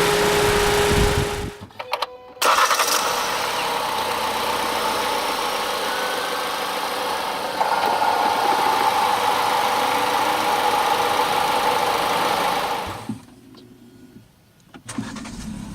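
The Ford EcoSport's 2.0-litre inline-four engine running steadily. It breaks off briefly about two seconds in, then falls away to quiet near the end.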